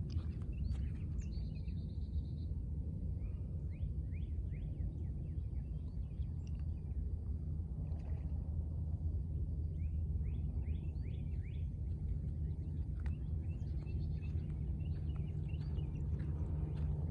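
Small songbirds chirping in quick runs of short rising notes, with a brief buzzy trill near the start, over a steady low rumble.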